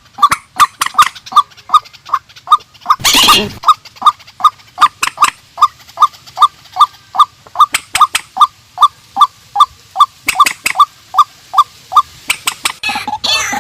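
Calls of the swamphen and white-breasted waterhen: a steady run of short, even notes about three a second, with sharp loud clicks between them. A harsh screech comes about three seconds in, and a rougher, busier burst of calls comes near the end.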